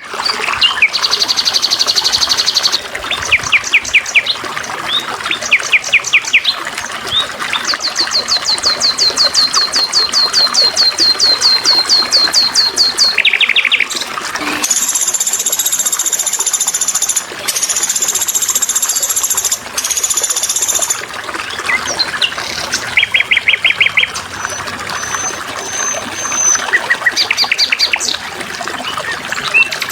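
Songbirds singing in rapid trills and chirps over a steady trickle of water. In the middle a long, high, shrill song runs for several seconds, broken twice.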